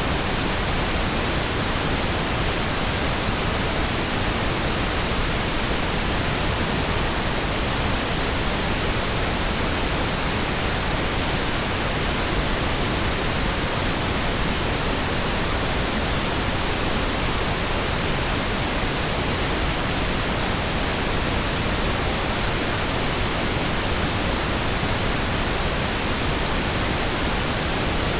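Steady pink noise: an even, unchanging hiss across the whole range of pitch, with no breaks or changes.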